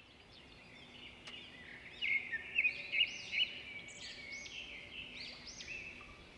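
Several songbirds chirping and calling outdoors, many short repeated chirps overlapping. The calls are sparse at first and grow busier and louder from about two seconds in.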